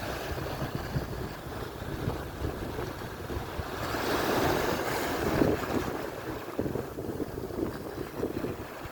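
Atlantic surf breaking and washing ashore, one wave swelling up about four seconds in, with wind buffeting the microphone as a gusty low rumble.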